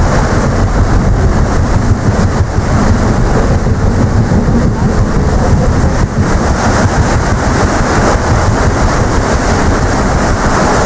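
Heavy wind buffeting the microphone on the deck of the paddle steamer PS Waverley under way at sea, a loud, continuous rumbling rush with no distinct events.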